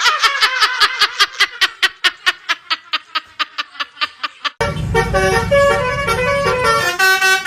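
Multi-tone 'telolet' bus horn: a rapid run of short staccato toots, about six a second, then from about four and a half seconds in a tune of held notes stepping up and down, over a low rumble.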